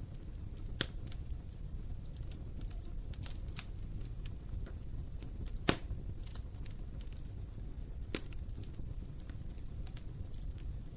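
Wood fire burning in an open fireplace: a steady low rumble of flames with irregular crackles, and a sharp pop about halfway through.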